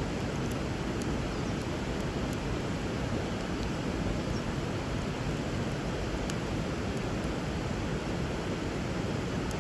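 Steady rush of flowing river water, with a few faint sharp crackles from the burning wood fire.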